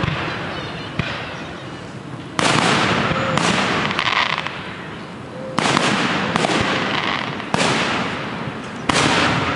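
Fireworks shells bursting in a quick string, a sudden bang every one to two seconds, each trailing off over a second or more.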